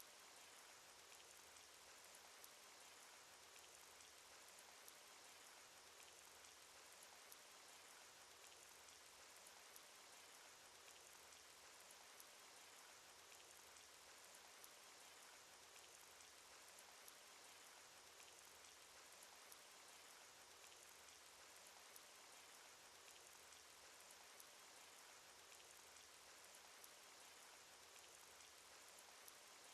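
Faint, steady cartoon rain sound effect: an even hiss of falling rain with light ticks of drops, a small tick recurring about every two and a half seconds.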